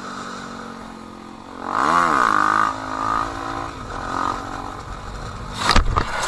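Motorcycle engine running steadily, then revved up and back down about two seconds in, with a couple of smaller blips of the throttle after. Near the end comes a sudden loud thump.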